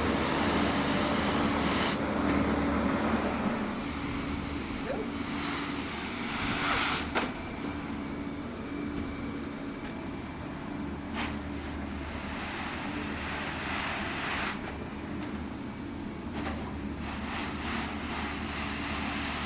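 Excavator diesel engine running steadily, with several short swells of hiss-like noise over it.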